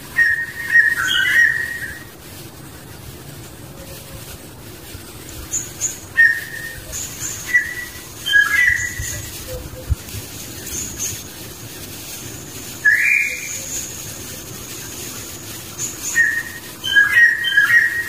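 Bird calls: short whistled phrases repeated every few seconds, one of them a single rising note about two-thirds of the way in, over a faint thin high buzz that comes and goes.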